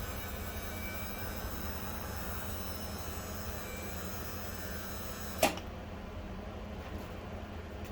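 A small electric machine runs with a steady hum and faint high whine, then is switched off with a sharp click about five and a half seconds in. A low hum carries on after the click.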